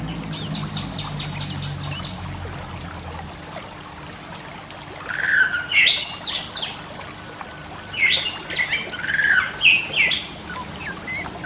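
Oriental magpie-robin (kacer) singing: a quick run of chattering notes in the first couple of seconds, then two loud phrases of varied whistles and harsh notes about five and eight seconds in.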